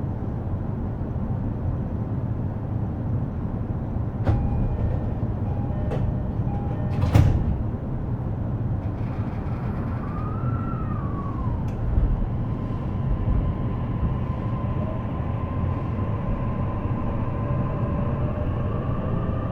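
E233 series electric train running, heard from inside the car: a steady rumble of the wheels on the rails, broken by a few sharp clacks, the loudest about seven seconds in. In the second half the motors' whine rises slowly in pitch as the train picks up speed.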